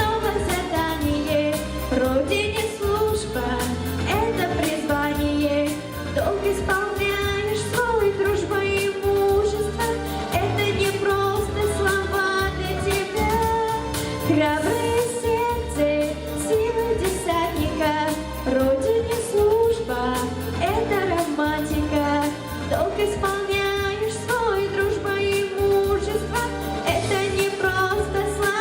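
A vocal ensemble singing a patriotic pop song over a loud backing track with a steady beat.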